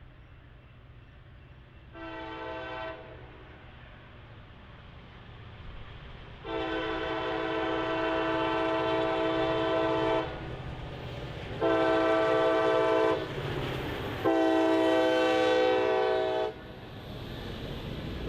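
Diesel locomotive air horn sounding four chord blasts in the long-long-short-long grade-crossing pattern, with the second and fourth blasts held longest, over the low rumble of the approaching train.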